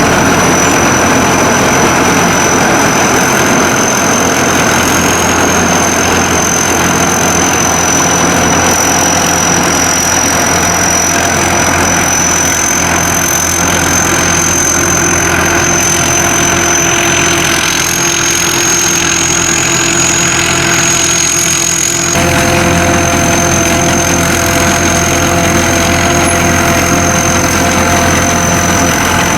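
A mini combine harvester's engine and machinery running steadily, with a thin high whine over the engine. About three-quarters of the way through, the tone changes abruptly.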